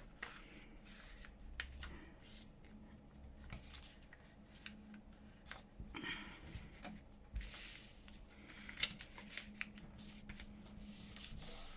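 Paper pages being handled and slid into place, with soft rustling and scattered light taps and clicks.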